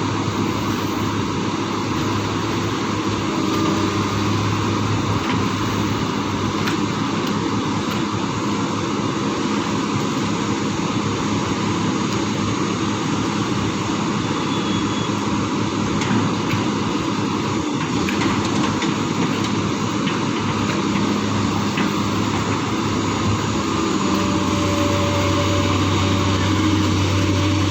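Excavator's diesel engine running steadily under work, a constant low hum with a rushing mechanical noise over it; the hum grows a little stronger and louder near the end.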